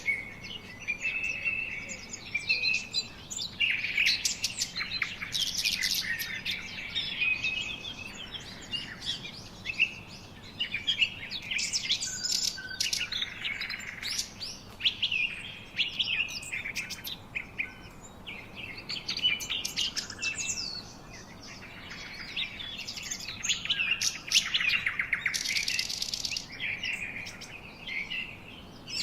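Several songbirds singing and chirping at once, a dense chorus of overlapping short chirps, rapid trills and whistled phrases.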